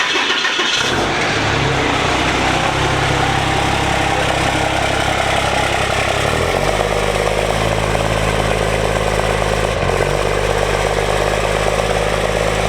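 Cummins diesel engine firing up, catching about a second in and then running at a steady idle, its note shifting about halfway through. It is running cold with a lightly bent valve, so number one cylinder has low compression.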